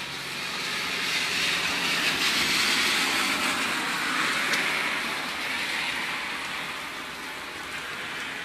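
A car passing on a wet road: tyre hiss on water swells over the first few seconds and slowly fades, over steady rain.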